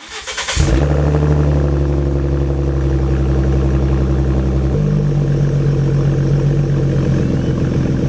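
Ford Mustang's engine idling steadily through a Corsa Extreme exhaust, its pitch stepping up slightly about five seconds in.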